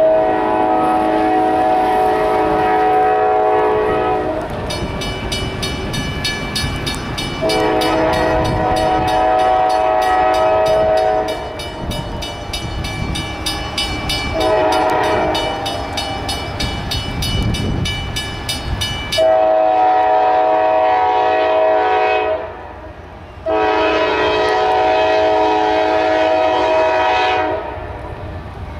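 Diesel freight locomotive's multi-note air horn sounding a sequence of blasts (long, long, short, long, then another long), the grade-crossing signal, over the rumble of the passing train. A high squeal runs through the middle of the sequence, from about 5 to 19 seconds in.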